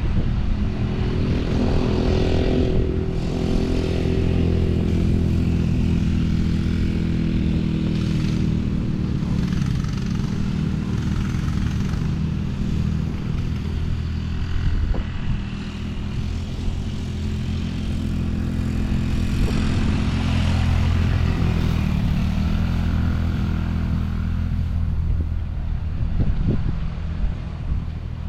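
Small off-road vehicle engine running while being ridden, its pitch rising and falling as the throttle opens and closes.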